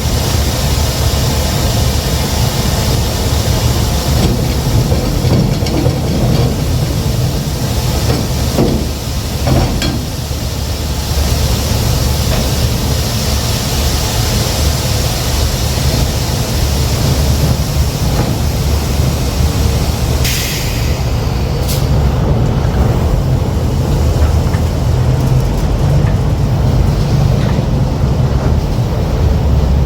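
Semi truck's diesel engine running steadily with a low rumble. A short hiss of air comes about twenty seconds in.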